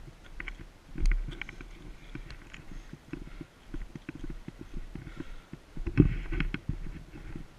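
Irregular low thumps and rustling from a body-worn GoPro as it rubs and jolts against its wearer, loudest about a second in and around six seconds in.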